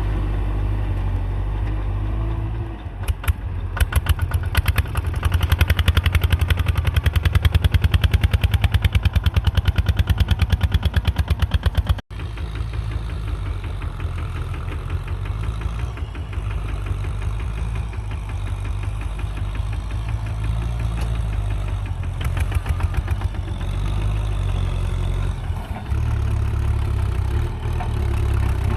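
Kubota M6040 tractor's diesel engine running. A few seconds in, it turns to a loud, fast, even clatter of pulses, as if worked hard. That stops with an abrupt cut a little before halfway. After that it runs steadily, with another brief louder stretch later on.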